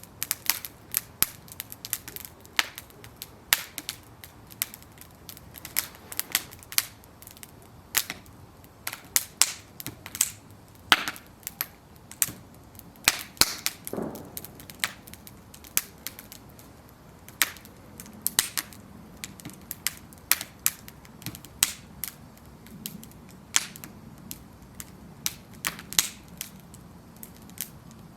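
Wooden planks burning in an open bonfire, crackling with sharp irregular pops and snaps over a low steady rush of flame.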